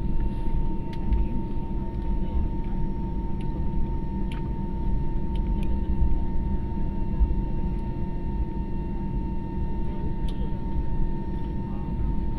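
Steady airliner noise after landing: a low rumble with a thin, steady high whine and a few faint clicks.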